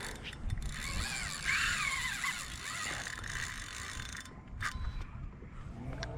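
Fishing reel being cranked, a steady mechanical clicking whir of the gears as line is retrieved.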